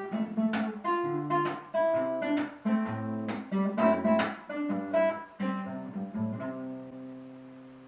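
Acoustic guitar playing a melody with bass notes and strummed chords, ending on a final chord that rings out and fades away over the last second or so.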